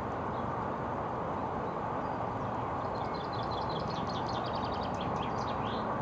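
A bird singing a quick run of high repeated notes, ending in a few sweeping notes, over steady rushing background noise.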